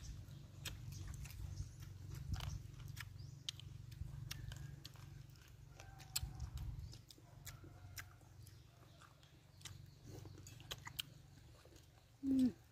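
Close-up eating sounds: chewing with wet lip smacks and scattered mouth clicks as people eat a spicy noodle salad with raw leafy greens. A low rumble sits under the first seven seconds, and a short, loud hummed vocal sound comes just before the end.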